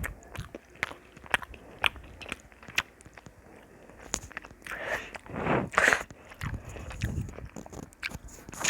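A person biting into and chewing a crunchy snack close to the microphone, a run of sharp crunches, loudest about five to six seconds in.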